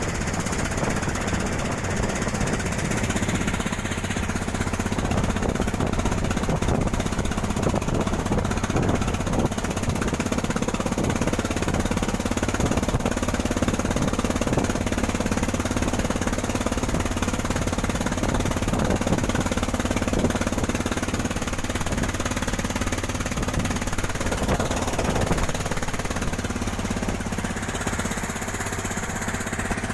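Small wooden cargo boat's engine running steadily and loud at speed, with a rapid, even pulse.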